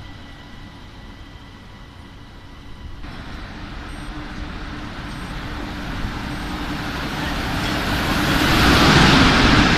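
First the fainter running sound of an ÖBB Cityjet electric train with a steady whine. About three seconds in this gives way to a Siemens Vectron electric locomotive hauling a container freight train as it approaches and passes close. Its steady hum and the rumble of the wheels swell over several seconds and are loudest near the end.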